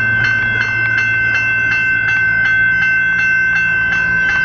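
Level-crossing electronic bells (General Signals E-Bells) ringing rapidly, about three strikes a second over a steady ringing tone, as the crossing stays active. A low rumble runs underneath.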